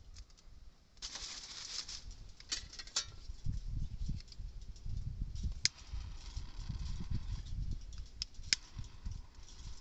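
Wind buffeting the microphone in uneven low rumbles, with a brief rustle about a second in and a few sharp clicks.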